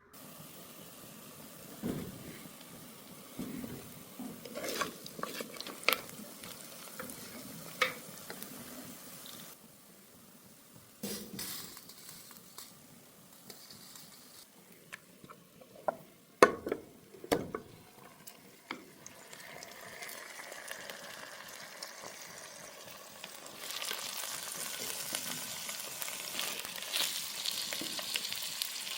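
Food sizzling in a pot, with scattered sharp knocks of a utensil against the pot. The sizzle grows louder near the end.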